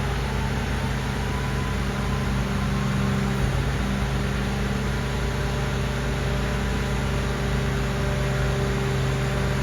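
Mercedes-Benz Arocs garbage truck's diesel engine running steadily at idle, with a steady hum.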